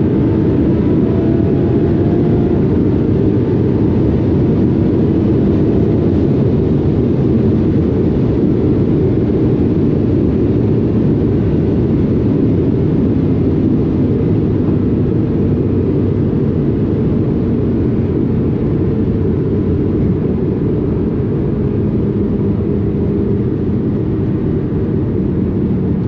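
Twin-turbo Audi R8 V10 running at high speed: a steady, loud rush of wind and tyre noise over a low engine drone, with the engine note slowly falling in pitch over the last few seconds.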